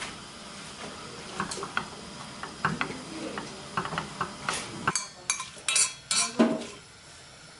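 Food sizzling as it fries in a pan, with a utensil stirring and repeatedly clinking and scraping against the pan. A quick run of clinks near the end is the loudest part.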